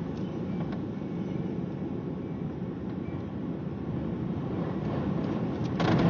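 Thunderstorm: a steady low rumble that swells near the end into a louder, crackling burst.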